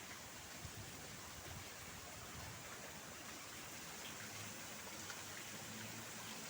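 Faint, steady hiss of outdoor background noise with no distinct events; a faint low hum comes in near the end.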